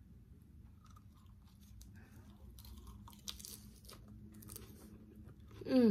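Close-up chewing and crunching of a lettuce wrap with rice noodles and grilled fish, crisp crunches coming through the middle. Near the end a short, louder voiced sound with a pitch that bends down and up.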